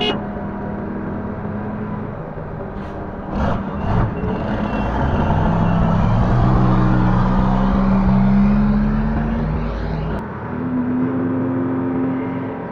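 Link-Belt 145X3E hydraulic excavator's diesel engine working. It revs up under hydraulic load about four to five seconds in, holds high, then drops back suddenly near ten seconds. A couple of knocks come just before the rev.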